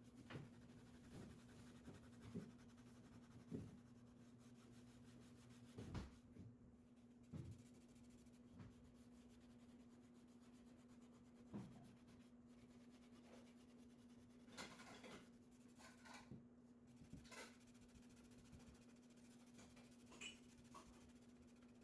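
Near silence with a faint steady hum, broken by scattered light clicks and short scratching or rubbing sounds, more of them about two-thirds of the way through.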